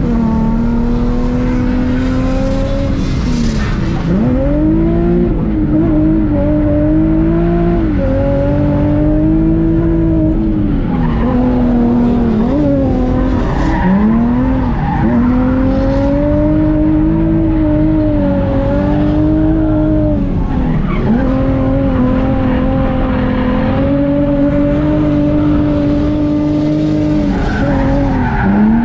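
Nissan 350Z's 3.5-litre V6, heard from inside the cabin, held high in the revs while drifting. The note dips and climbs back several times as the throttle is lifted and reapplied, over tyre squeal.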